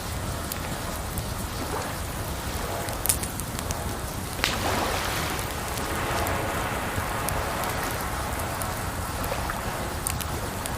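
Campfire crackling, with a few sharp pops, over a steady rush of running water.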